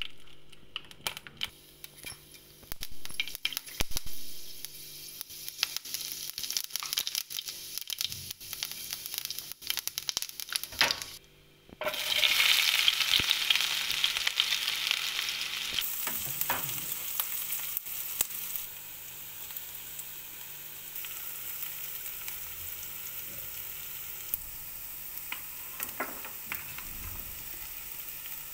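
Hot oil crackling in a pan, with cumin seeds spluttering and sharp pops. About twelve seconds in, after a short break, a much louder sizzle starts as sliced onions go into the oil, then it eases into a steady frying hiss.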